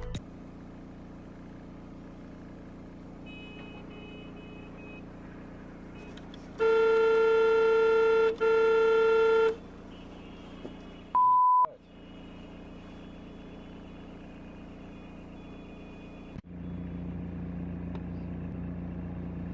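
A car horn sounds for about three seconds, broken once near the middle, over a steady low engine and road hum. A couple of seconds later comes a short, pure single-tone beep.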